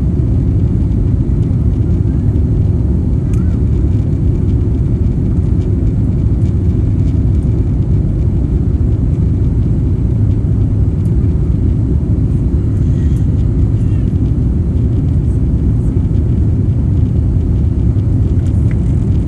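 Steady low rumble of jet airliner engines, holding constant with no rise or fall.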